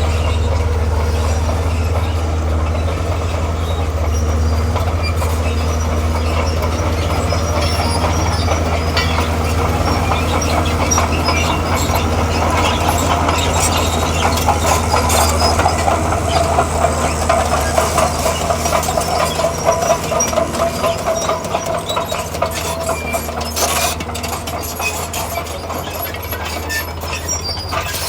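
Komatsu D41P crawler bulldozer working: its diesel engine drones steadily under the clatter and squeal of its steel tracks. The track clatter and squeal grow louder in the middle, then ease off toward the end.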